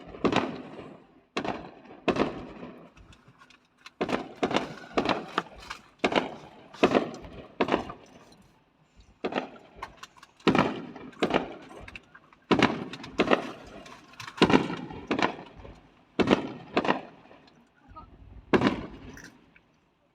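Aerial fireworks shells bursting in a rapid series, sharp bangs about one a second, each fading in an echoing tail, with a few short pauses between volleys.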